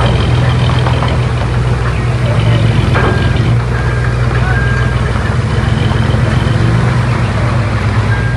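Heavy diesel engine of earthmoving machinery running steadily at a low, even pitch. A few short reversing-alarm beeps sound near the middle.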